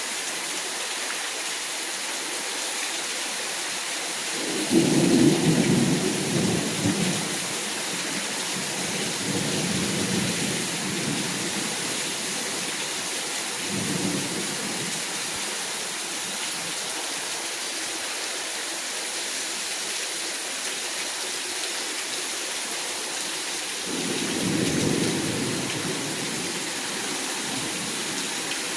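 Steady rain falling in a thunderstorm, with thunder rumbling: a loud rumble about five seconds in lasting a few seconds, weaker ones around ten and fourteen seconds, and another about twenty-four seconds in.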